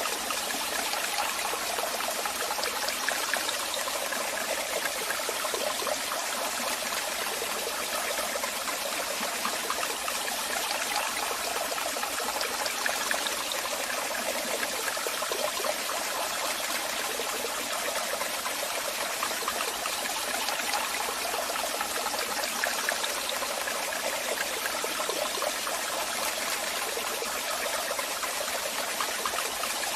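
Waterfall: water cascading and splashing in a steady, unbroken rush, bright and hissy with little deep rumble.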